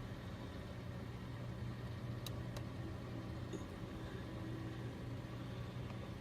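A steady low mechanical hum, like an idling engine or running motor, with a few faint clicks.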